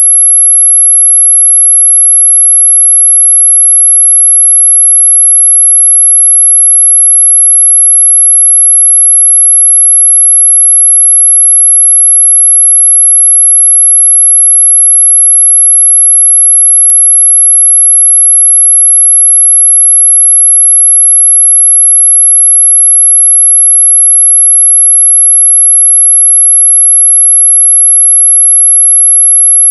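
A continuous, very high-pitched electronic sine tone, steady and loud, played as a mosquito-repellent sound. A faint click comes about seventeen seconds in.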